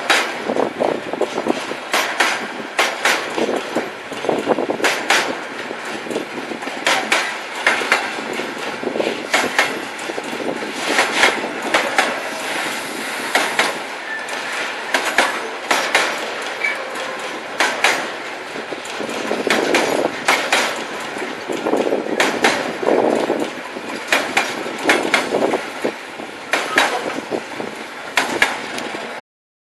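Freight train wagons rolling past, their wheels knocking irregularly over rail joints above a steady rolling noise. The sound cuts off suddenly near the end.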